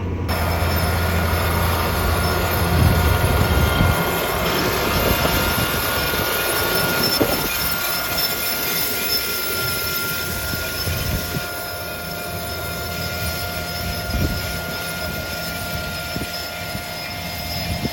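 Tractor and mounted corn planter running in the field: a steady engine rumble with a long, steady high whine over it.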